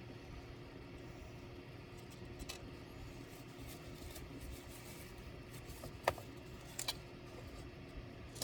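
Small clicks and taps of tools and parts being handled while a laptop is taken apart, the sharpest about six seconds in and a double click just after, over a steady low hum.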